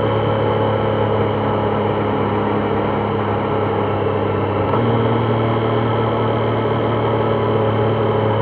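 Triumph Trident 660's inline-three engine running steadily, its pitch stepping up slightly about five seconds in.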